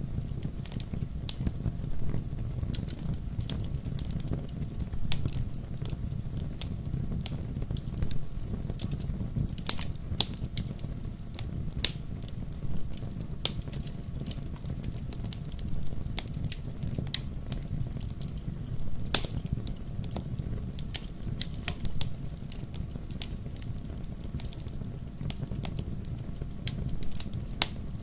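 Fire burning in a fireplace: a steady low rumble of flames with irregular sharp crackles and pops, a few of them louder than the rest.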